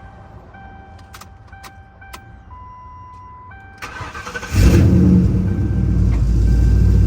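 Ford Crown Victoria's V8 cranked by the starter about four seconds in, catching almost at once and settling into a loud, steady idle through an exhaust that is leaking and hanging loose.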